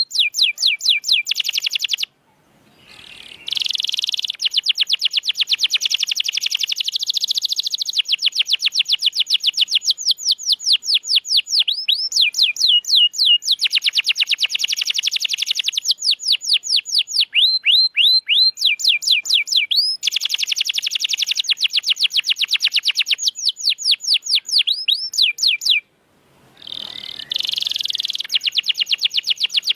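Domestic canary singing energetically: long, fast rolls of rapidly repeated high notes, some as sweeping slurs, switching from one trill to the next. The song breaks off briefly about two seconds in and again near the end, then resumes.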